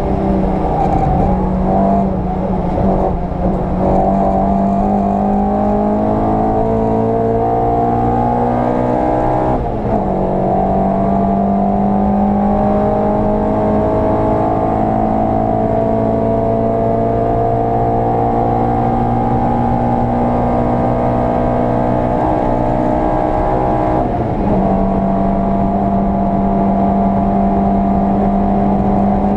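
VW Polo 86C's engine pulling hard through the gears, its note climbing slowly in each gear. There are two brief breaks, about a third of the way in and again near the end, after which the note holds nearly steady.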